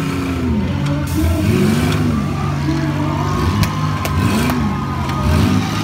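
Several front-wheel-drive demolition derby cars' engines revving up and down over one another as the cars spin and shove on the dirt, with a sharp bang of a collision about three and a half seconds in.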